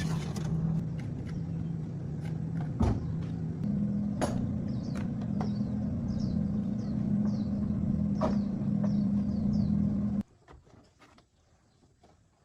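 A machine running steadily with a low rumble and hum, its pitch stepping up slightly a few seconds in, with scattered clicks and knocks. It cuts off abruptly about ten seconds in.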